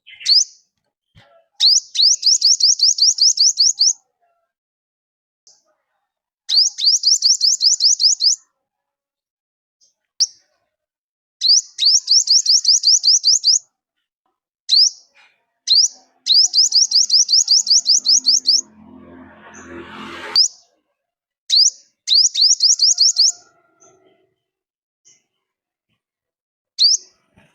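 Song of the bird Vietnamese trappers call the 'five-colour bird', used as a lure to trap forest birds: five phrases of fast, high, rising whistled notes, each about two seconds long, with single sharp upslurred notes between them. About 19 seconds in, a short rising swish with a low hum sounds under it.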